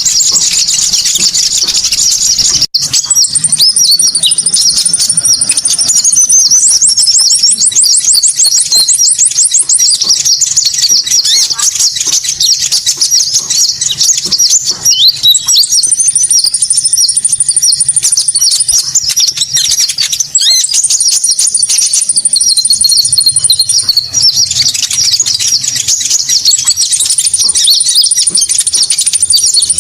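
Bird-lure recording of konin bird calls: loud, fast, high-pitched chirping and twittering without a break. A thin, very high trill comes in every few seconds over the chirping, and the sound drops out for an instant about three seconds in.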